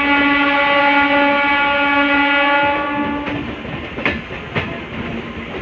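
A train horn sounds one long steady blast that cuts off about three seconds in. Then comes the rumble of passenger coaches rolling past, with a few sharp knocks of wheels over rail joints.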